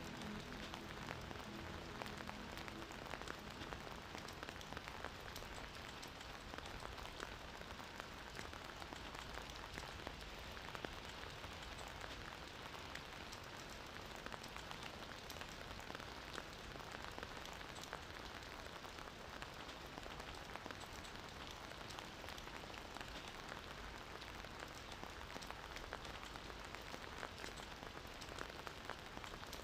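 Steady rain: an even hiss with many fine, scattered drop ticks. A few low musical tones fade out in the first few seconds.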